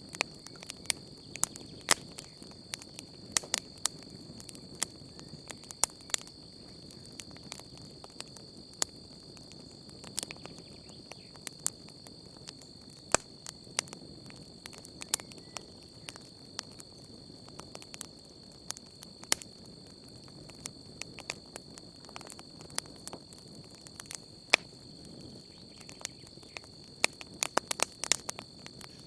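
Wood campfire crackling, with frequent irregular sharp pops and snaps over a low steady rush of flame. A steady high-pitched chirring of crickets runs underneath.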